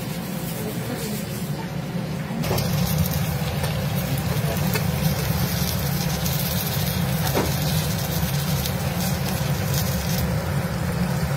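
Stuffed brinjals going into hot oil in a kadai and frying, a dense sizzle that starts about two and a half seconds in, with a knock as they go in and another some five seconds later as they are stirred with a wooden spatula. A steady low hum runs underneath.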